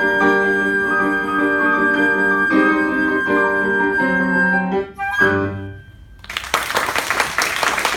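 Flute holding one long high note over piano chords in the closing bars of the piece, then a short final chord about five seconds in. Applause starts about a second later.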